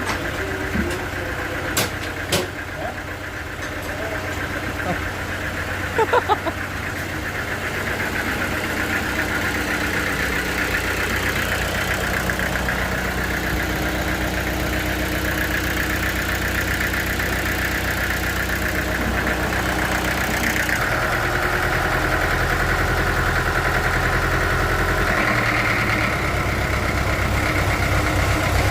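Engine running steadily, with a few sharp knocks in the first several seconds; its note shifts about two thirds of the way through and again near the end.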